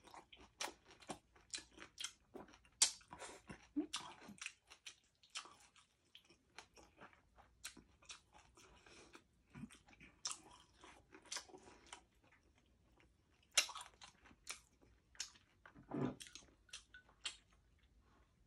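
Close-up mouth sounds of eating with the hands: chewing and biting into crispy pata, deep-fried pork knuckle, with irregular wet smacks and crunches and one louder mouth sound about two seconds before the end.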